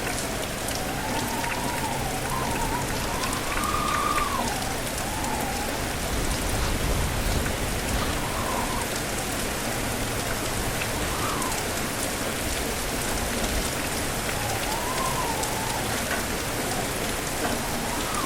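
Steady rain, with many separate drops hitting a surface. Every few seconds a gust of wind whistles, rising and falling in pitch.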